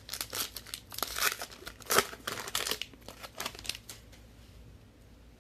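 Plastic wrapper of a trading card pack crinkling and tearing as it is opened by hand, a dense crackle for about three seconds that dies away near the end.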